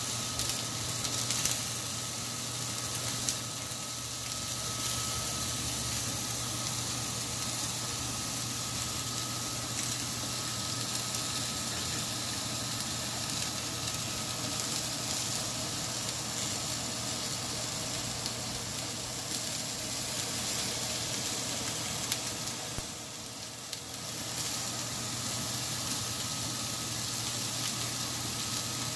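French toast, egg-battered bread slices, sizzling steadily on a hot flat-top griddle, over a steady low hum.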